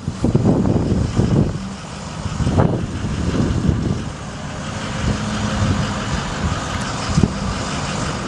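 Ford F750 bucket truck's engine running, a dense low rumble with uneven swells in loudness.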